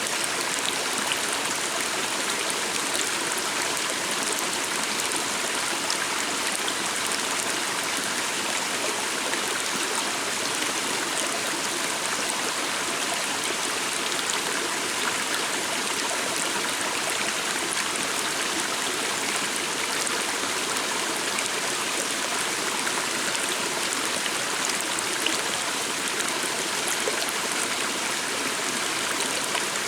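Steady rushing and babbling of a flowing stream, an even wash of water noise that doesn't change.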